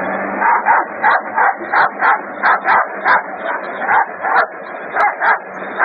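A dog barking in a quick, even run of short barks, about three a second.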